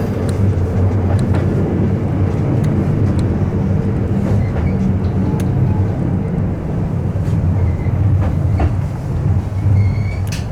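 Electric commuter train running, heard from the front of the train: a steady low rumble of wheels and running gear with scattered light clicks, and a brief high squeal near the end.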